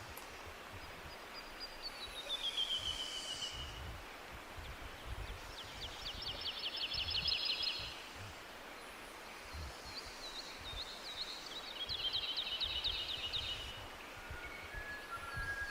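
Songbirds singing in a forest: a phrase that falls in pitch, then two rapid trills a few seconds apart, over a steady hiss and a low rumble like wind.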